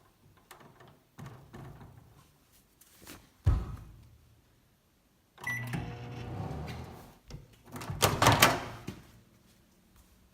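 Handling noises at a microwave oven: a single knock about three seconds in, then a couple of seconds of steady hum, then a short loud clatter near the end.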